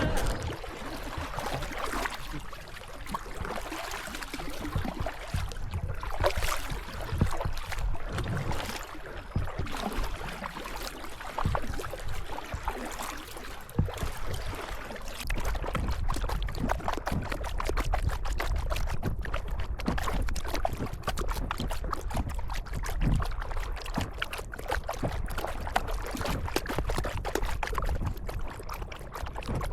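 Kayak paddles dipping and pulling through the water, with irregular splashing and water trickling off the blades, over a steady low rumble.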